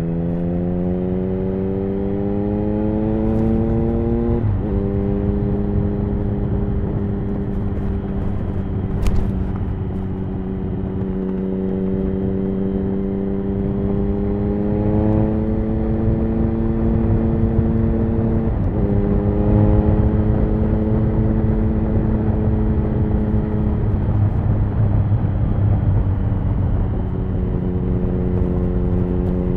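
Triumph Speed Triple 1050's inline three-cylinder engine through an HP Corse Hydroform exhaust, pulling under acceleration. Its note rises and then drops suddenly at an upshift about four seconds in. It holds at cruise and creeps up, drops again at a second upshift a little past halfway, and climbs once more near the end, over steady wind rush.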